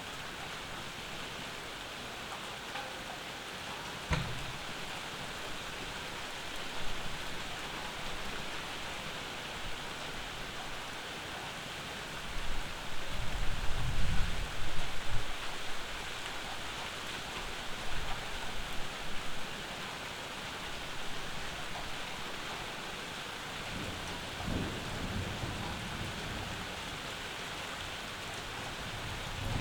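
Steady summer rain with low rolls of thunder. The loudest rumble comes about halfway through and a weaker one near the end, with a single sharp tap early in the rain.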